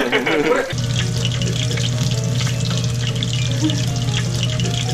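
Shrimp kakiage frying in hot oil, crackling and sizzling, with steady low background music underneath.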